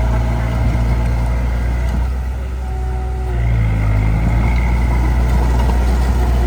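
Heavy machine's diesel engine running steadily. It eases off about two seconds in, then picks up again with a shift in pitch a second or so later.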